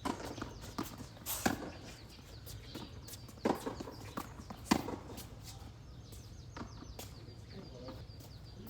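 Tennis rally: three loud sharp racket-on-ball hits, a little over a second apart, with lighter knocks of ball bounces between.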